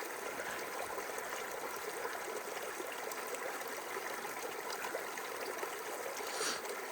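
A mountain stream running steadily, an even rushing of water.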